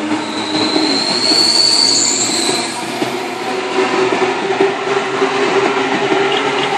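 Sydney Trains Tangara electric train passing, with a steady running noise of wheels and motors; a high-pitched wheel squeal rises slightly and fades out about three seconds in.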